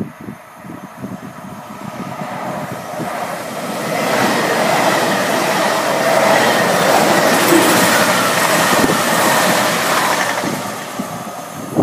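Two coupled Class 220 Voyager diesel-electric multiple units running through a station at speed without stopping. The underfloor diesel engines and wheels on the rails grow louder as the train approaches, stay loud for several seconds as it passes, and fade as it draws away near the end.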